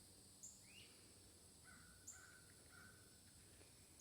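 Faint, distant birds calling: thin high chirps every second and a half or so, and a run of four short lower calls midway, over a steady high insect drone.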